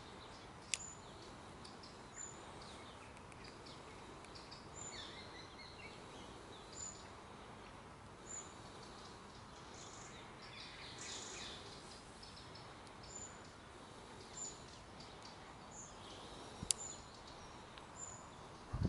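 Outdoor birdsong over a quiet, steady background hiss. One bird repeats a short high chirp every second or two, and other birds sing in brief spells. Two sharp clicks stand out, one about a second in and one near the end.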